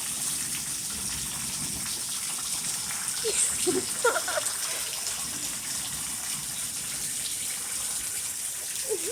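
Steady rain pouring down, an even rushing hiss. A few brief voice sounds come about three to four seconds in.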